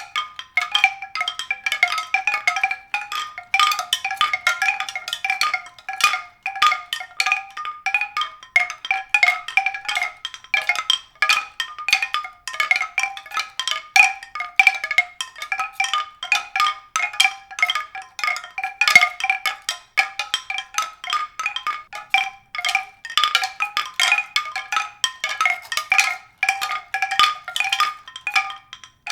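Tuned percussion: a dense, irregular stream of struck notes, several a second, staying within a narrow range of pitch.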